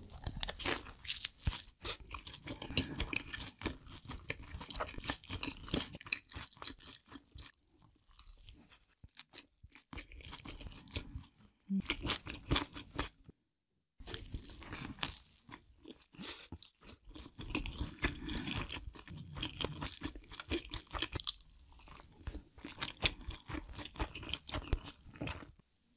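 A person biting into and chewing fried dumplings: a dense run of crunching and chewing, which cuts out completely for under a second about halfway through.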